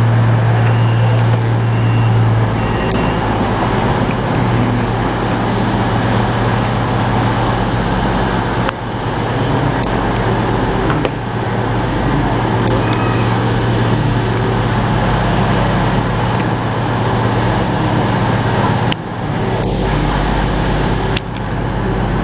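A train running close by: a loud, steady low hum over a broad rumble, briefly dipping a few times.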